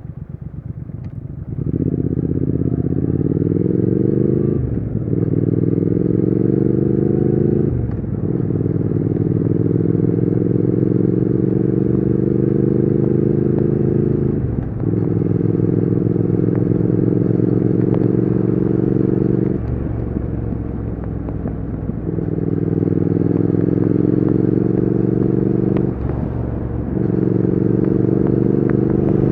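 Triumph Speed Twin 1200's 1200 cc parallel-twin engine and exhaust pulling under throttle. The engine note climbs, then drops sharply at each upshift, several times. It eases off briefly about two-thirds of the way through, then pulls again.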